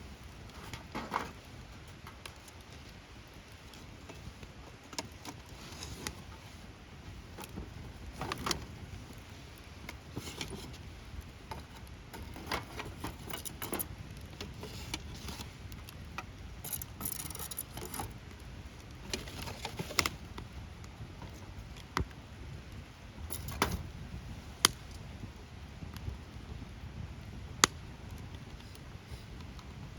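Wood fire burning in the open, crackling with irregular sharp pops and snaps over a low steady rumble, the loudest snaps coming in the second half.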